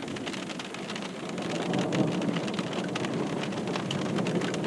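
Rain falling on a car's roof and windshield, heard from inside the car: a dense, steady run of small drop hits.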